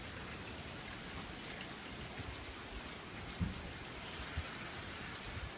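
Steady rain falling, a light even hiss of drops, with a couple of soft low thumps about three and a half and four and a half seconds in.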